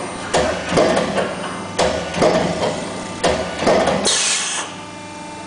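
Hydraulic moving-head die-cutting press working in a steady cycle: a sharp clack about every second and a half, each followed by a softer knock, three times. Near the end comes a short hiss, and the cycling stops.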